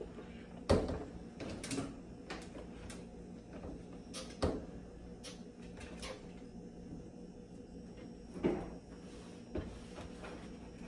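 An old clothes dryer being handled while it is loaded with laundry: scattered knocks and clatters of its drum, filter and door, the clearest about a second in, near the middle and near the end.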